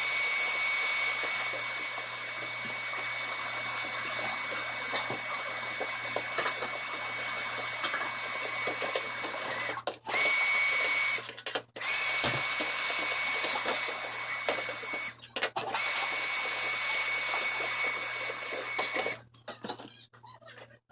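A small electric motor pushing air runs with a rushing hiss and a steady high whine. It cuts out briefly three times, about halfway, a little later and about three-quarters in, then stops shortly before the end.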